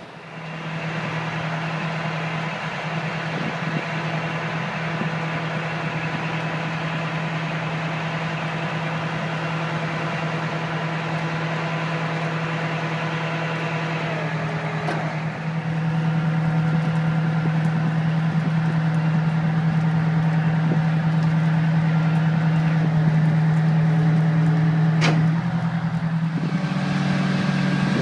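Fire truck's Detroit Diesel Series 92 two-stroke diesel engine running steadily at idle. It gets a little louder about halfway through, and a sharp click near the end is followed by a slight rise in engine speed.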